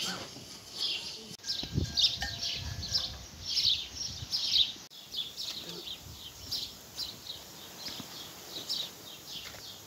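Small birds chirping: rapid short, high, falling chirps repeating over and over, with a few low thuds between about one and a half and three seconds in.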